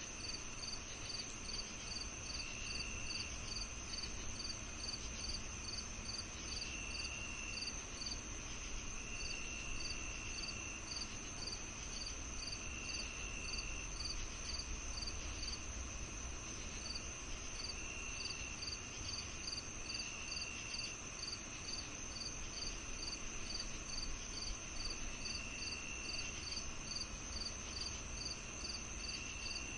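A summer-evening chorus of crickets and other insects: one steady high trill, another chirping about three times a second, and a lower trill that comes and goes in spells of about a second, over a faint low rumble.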